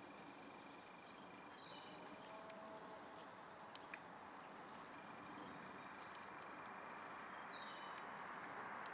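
Small songbird calling: four clusters of two or three short, very high-pitched chirps a couple of seconds apart, over a faint steady background hiss.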